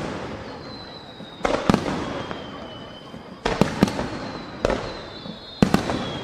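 Aerial firework shells bursting overhead: about eight sharp booms in close pairs and clusters, each trailing off in a rumbling echo. A faint high whistle slides slowly down in pitch between the bursts.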